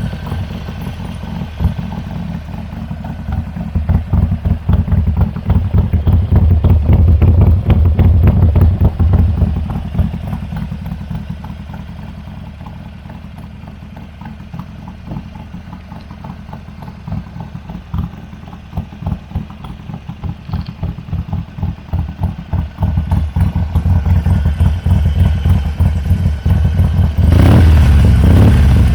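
Harley-Davidson Sportster's air-cooled V-twin running through Chrome Works slip-on mufflers, a deep pulsing exhaust note. It is louder through the first ten seconds, settles to a quieter idle in the middle, and builds up again to a loud stretch near the end.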